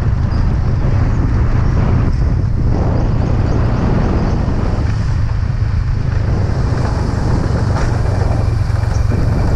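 A habal-habal motorcycle running steadily on the road, its engine and road rumble heavy and continuous.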